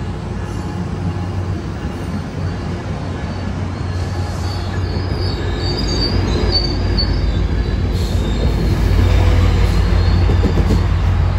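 Train rolling past with a steady low rumble that grows louder, and a brief high-pitched wheel squeal a little before the middle.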